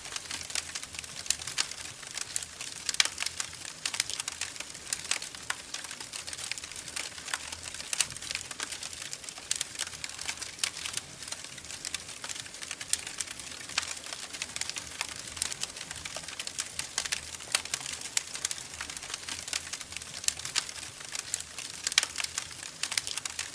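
Wood fire crackling in a fireplace: a constant stream of irregular sharp pops and snaps over a soft hiss.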